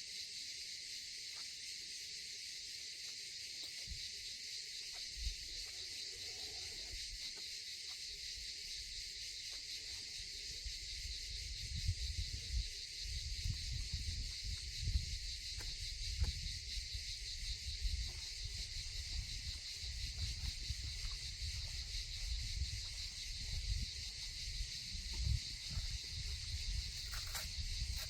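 A steady chorus of insects with a high, finely pulsing buzz, typical of a summer forest. From about halfway in, an uneven low rumble comes and goes underneath.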